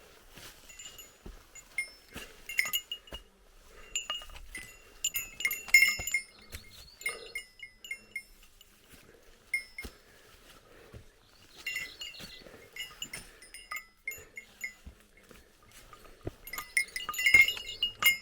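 A hiker's small bear bell jingling over and over in short irregular clusters of rings, busiest a few seconds in and again near the end.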